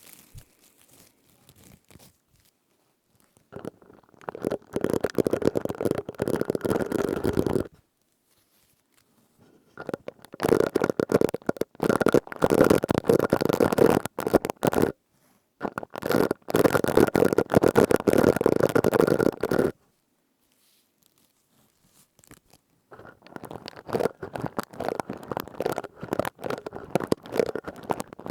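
Plastic scourer rubbed and squeezed close to the microphone: dense crinkly crackling in four bouts of a few seconds each, with short silent pauses between.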